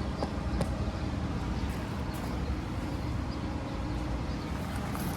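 Outdoor heat pump and air-conditioner condensing units running: a steady drone of condenser fans and compressors with a low hum, and a couple of light ticks in the first second.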